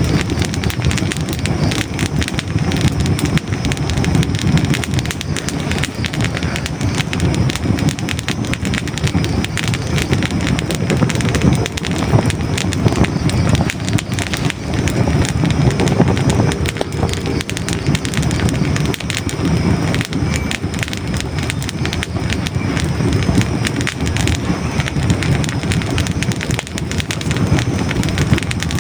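Hardwood logs burning in a fireplace: continuous dense crackling and small pops over a steady low rush of flame.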